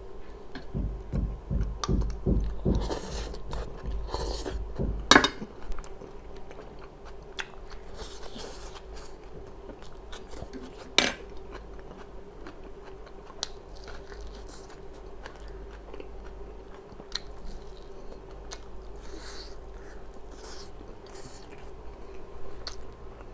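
Close-miked chewing and biting of grilled shashlik meat, wet mouth sounds that are heaviest in the first five seconds and then quieter. Two sharp clicks stand out, about five and eleven seconds in, over a faint steady hum.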